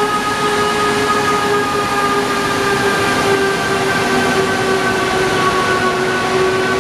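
Haramain high-speed electric train moving slowly past along the platform: steady rolling noise under a held whining chord from its electric drive that sinks slightly in pitch.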